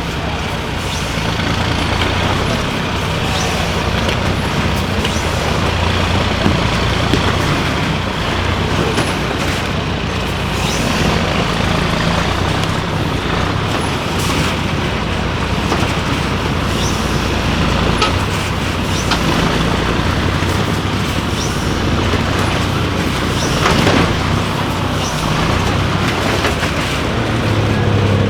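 Diesel engine of a 6x6 MAN trial truck working under load, its revs rising and falling, with a few sharp knocks.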